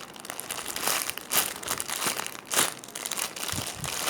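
Crinkling and rustling of handling: a foam squishy and its plastic packaging being squeezed and turned in the hands, with a few louder swells of crinkle.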